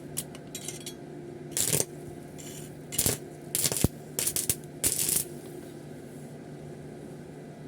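Metal pieces clinking and scraping in a series of short bursts over a few seconds, with one sharp click among them, over a steady low hum.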